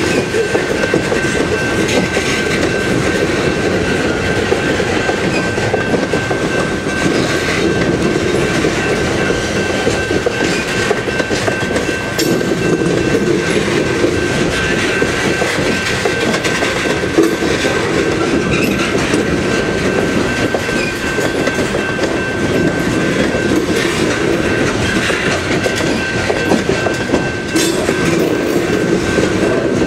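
A loaded coal train's cars rolling steadily past, with a continuous rumble and clatter of steel wheels on the rails. A steady high-pitched tone runs through it.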